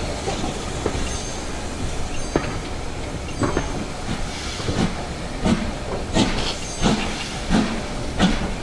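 LMS Black Five two-cylinder 4-6-0 steam locomotive working a train, heard from the carriages: a steady hiss and rumble, with evenly spaced exhaust beats, about one every 0.7 s, coming through from about three seconds in.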